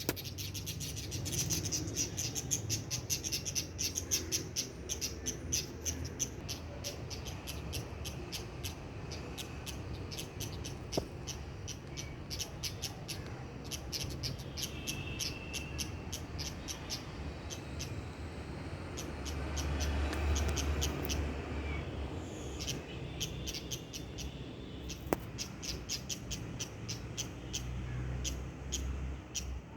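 Many small birds chirping in a rapid, continuous chatter of short high calls, with a low rumble underneath that swells about two-thirds of the way through.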